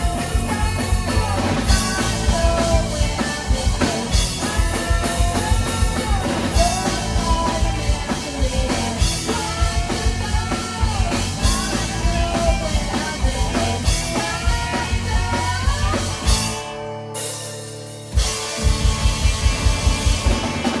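Live rock band playing at full volume: drum kit, guitars and a melodic lead line. About 16 s in the drums drop out under a held low chord, then the whole band comes back in hard about two seconds later.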